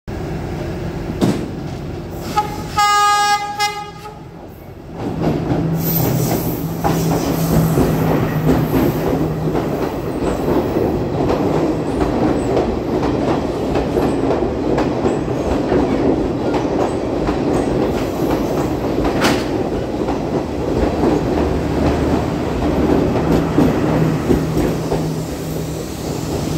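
Diesel passenger train sounding its horn once, a chord of several tones lasting about a second and a half, then passing close by, its engine running with a steady low drone while the wheels rumble and clack over the rail joints.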